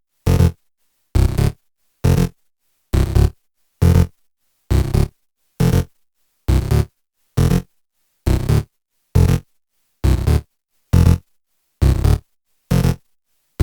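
Electronic music intro: a short, bass-heavy synthesizer stab repeated a little under once a second, with silence between each hit.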